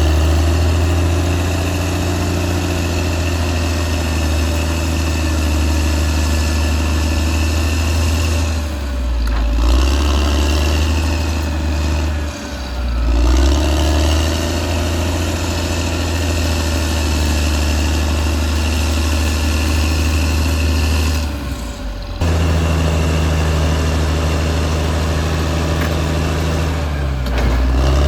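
Caterpillar D6R XL bulldozer's diesel engine running with a steady deep drone and a high whine. The sound dips and shifts briefly three times, abruptly near the end.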